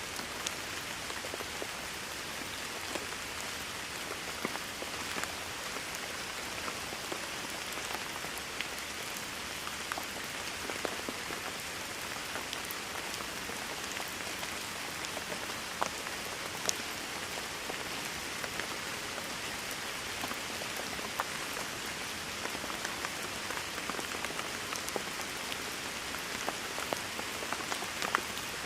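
Steady rain falling on a surface, a dense even hiss with scattered sharper drop impacts throughout.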